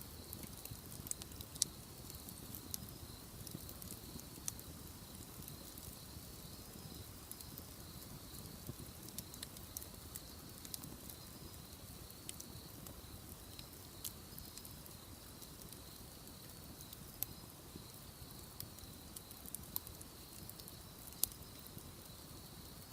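Wood bonfire crackling faintly, with scattered sharp pops and snaps over a low steady rush.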